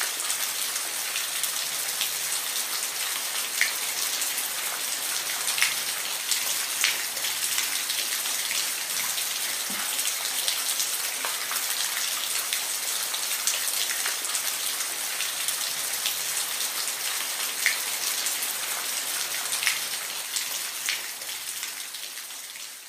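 Steady rain falling: a dense, even hiss with scattered louder individual drops ticking through it, fading out near the end.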